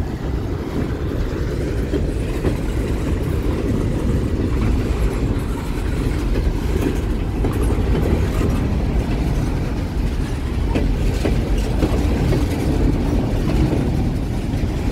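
Freight train of open-top hopper cars rolling past a level crossing close by. The sound is a steady, loud, low rolling noise of wheels on rail, with a few faint clicks.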